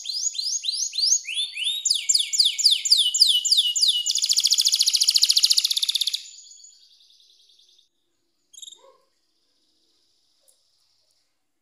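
Domestic canary singing: a run of repeated sweeping whistled notes, about four or five a second, changing to a fast rattling trill that breaks off about six seconds in. After that a single short call, then near silence.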